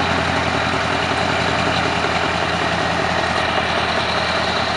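Scania R620's V8 diesel engine idling steadily, with a deep low hum and no revving.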